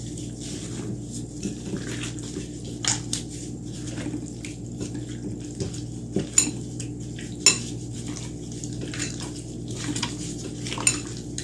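Kitchen utensils clinking and knocking against dishes, with a few sharper clinks spaced a few seconds apart, over a steady low hum.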